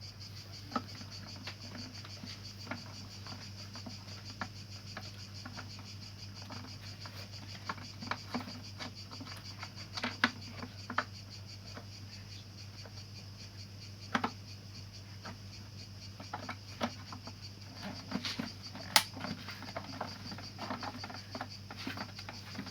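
Irregular small clicks and taps of a screwdriver, screws and plastic parts being handled while a washing machine's broken door lock is unscrewed and changed, over a steady low hum and a high hiss. A few sharper clicks stand out about ten, fourteen and nineteen seconds in.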